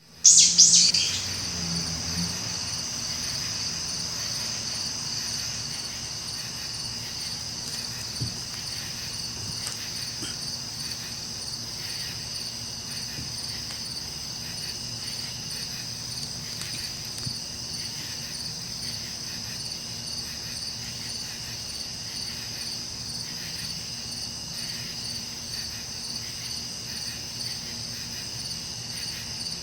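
Insects chirring: a steady, high, finely pulsed trill that is loudest in the first second and then holds even.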